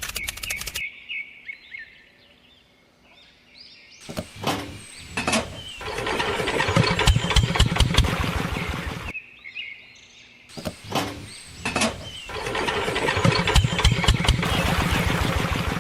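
An engine starting twice: each time it coughs a couple of times, then runs with a fast pulsing beat for about three seconds. The first run cuts off near the middle; the second is still going at the end. Birds chirp in the quiet stretch between.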